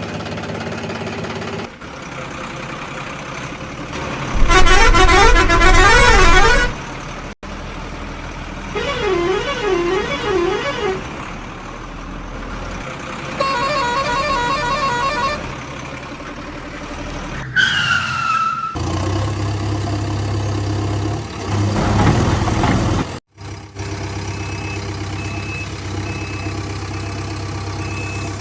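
A string of truck sound effects with abrupt cuts: loud warbling horn blasts, the loudest about four seconds in, a short falling tone near the middle, and a truck engine running between them.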